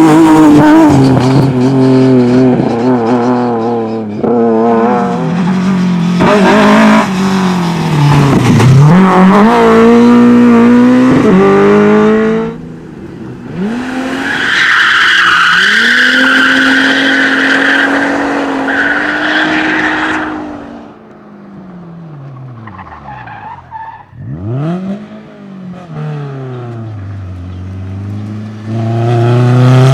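Rally car engines revving hard and rising and falling through gear changes. About halfway in, a long tyre squeal runs for several seconds as a car slides through a corner. The engine note then falls away quieter, and a loud engine comes back near the end.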